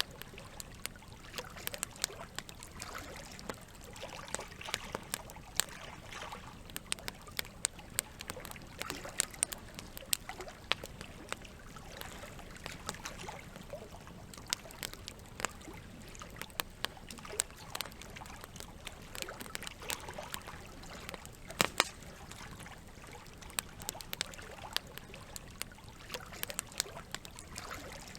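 Campfire crackling, with frequent sharp pops and snaps of burning wood over a steady trickle of flowing water. One pop stands out louder about three quarters of the way through.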